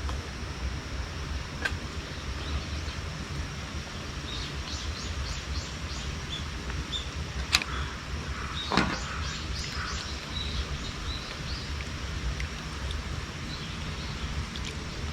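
Outdoor ambience with a steady low rumble, birds chirping in short runs of calls, and a few sharp knocks, the loudest about halfway through.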